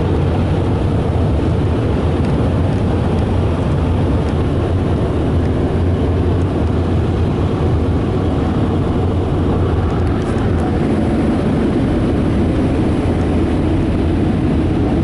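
Onboard air dryers of a Ryko Softgloss Maxx car wash blowing on the car in the drying stage, heard from inside the cabin: a loud, steady rush of air over a low hum.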